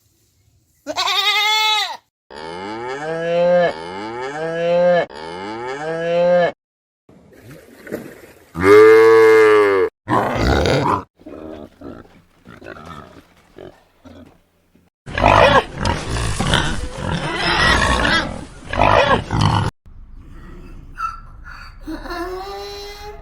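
A series of animal calls, likely from more than one animal: a rising-and-falling pitched call, three similar calls in a row, and a louder one, then a long hoarse call lasting several seconds, followed by shorter calls near the end.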